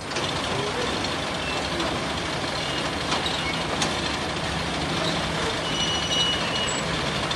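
Block-making machine running: a steady mechanical drone with a low hum and a few sharp clicks.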